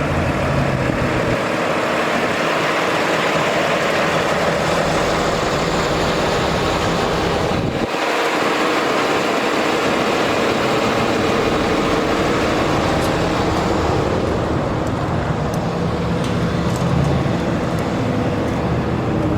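A 2018 Freightliner M2 dump truck with its Cummins 6.7-litre diesel running on the move, a steady mix of engine and road noise. The sound dips briefly about eight seconds in, and a few faint ticks come in the second half.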